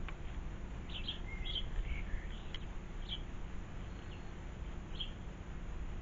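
Small garden birds giving short, high chirps, several close together in the first half and a few spaced out after, over a steady low background rumble.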